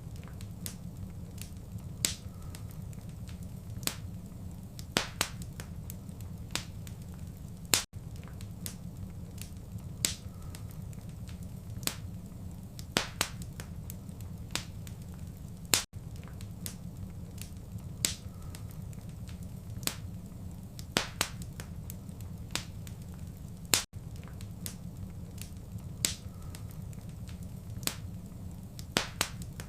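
Fireplace fire crackling and popping with irregular sharp snaps over a steady low rumble. The same stretch of crackles repeats every eight seconds, with a brief dropout at each restart.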